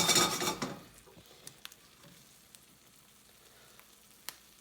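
A utensil stirring and scraping through creamed spinach in a pan for about the first second, then a faint sizzle as it warms on low heat, with a few light clicks of the utensil.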